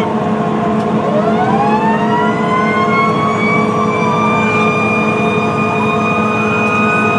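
Fire engine sirens wailing: one winds up in pitch about a second in and holds a steady high wail, while another rises and falls over it, above a steady engine drone.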